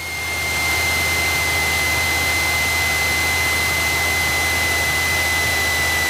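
Cessna 172 cabin and engine noise heard through the headset intercom feed: a steady rushing hiss over a low hum, swelling up over the first second, with a thin high whine that sinks slightly in pitch near the end.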